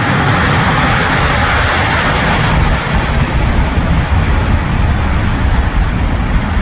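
Fighter jet taking off, its jet engine noise loud and harsh for the first two and a half seconds, then settling into a deep, steady rumble as it goes on.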